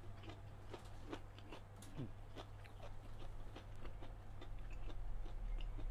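Someone chewing food close to the microphone: soft, irregular mouth clicks over a steady low hum that grows louder near the end.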